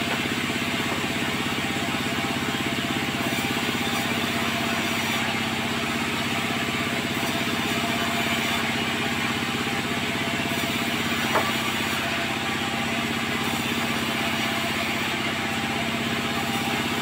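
Sawmill machinery running steadily with an even hum, and one short sharp click about eleven seconds in.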